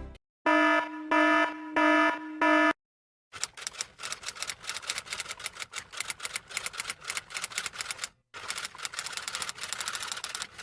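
Four short electronic beeps, buzzy and evenly spaced, then a long run of fast typing clatter with many keystrokes a second and a brief pause near the end.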